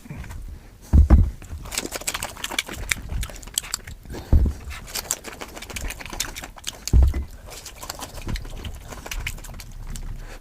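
Close-miked eating sounds: a steady run of wet mouth clicks and chewing. Three heavier low thumps come about a second in, at about four and a half seconds, and at about seven seconds.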